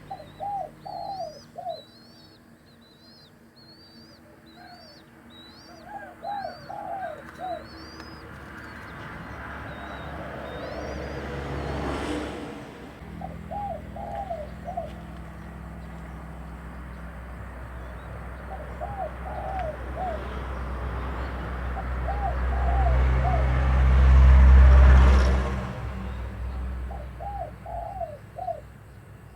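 A dove coos in repeated phrases of three or four notes every few seconds. Over the first several seconds a small bird chirps quickly and high-pitched. A low rumble swells twice and is loudest a few seconds before the end.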